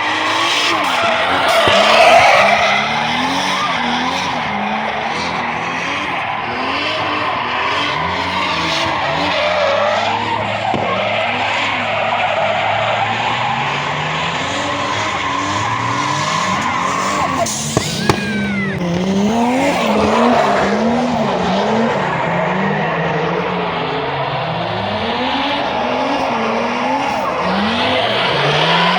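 Cars drifting: engines revving up and down again and again over continuous tyre screech.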